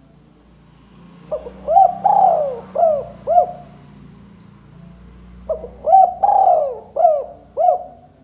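Spotted dove cooing, the 'kuk 2' call used by Indonesian dove keepers to lure wild doves: two phrases about four seconds apart. Each phrase is a couple of short opening notes, a long falling coo, then two shorter arched coos.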